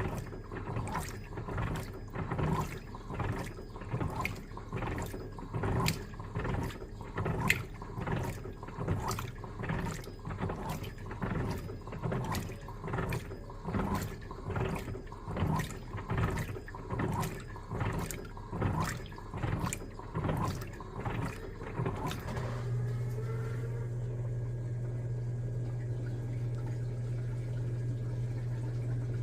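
Electrolux LTA15 top-loading washing machine agitating a load of bedding: its agitator swishes the water back and forth in rhythmic sloshing strokes. About 22 seconds in, the agitation stops and a steady low electrical hum with running water takes over.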